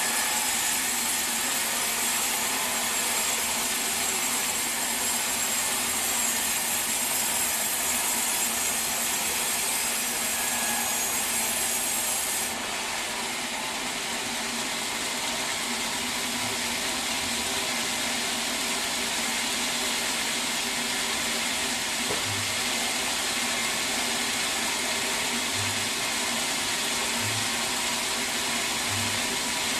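A sawmill saw cutting through a teak log with a steady high hiss. The hiss stops abruptly about twelve seconds in, leaving the machinery running without a cut.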